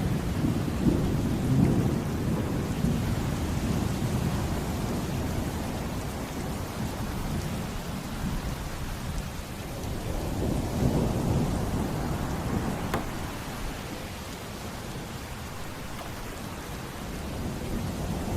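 Steady heavy rain with thunder rolling in twice, a low rumble at the start and another swelling about ten seconds in.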